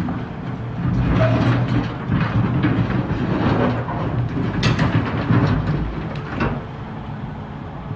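Volvo EC380EL excavator's diesel engine working under load, with rocks clattering and knocking as they are loaded, including one sharp bang about four and a half seconds in; the engine and clatter ease off near the end.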